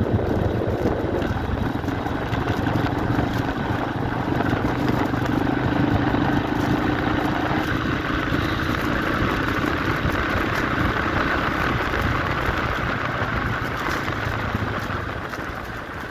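Yamaha XT350 dual-sport motorcycle's single-cylinder four-stroke engine running steadily while riding, its tone shifting about halfway through.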